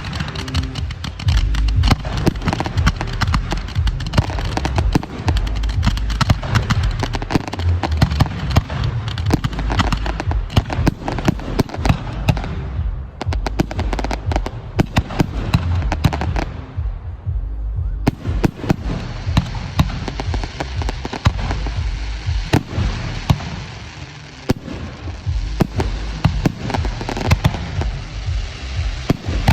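Professional firework display firing a rapid, continuous barrage: many sharp bangs and crackles over deep booming thuds.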